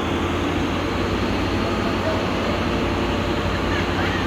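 Steady rumble of a train running, with an even noise and a low hum throughout.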